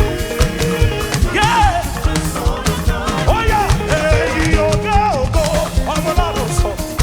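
Live gospel band music with a drum kit keeping a steady beat and bass underneath, while a lead voice sings sliding melodic runs over it.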